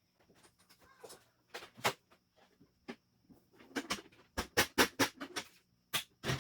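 Irregular plastic clicks and knocks from a vacuum cleaner being handled, coming thicker and louder in the second half. They lead straight into the motor starting.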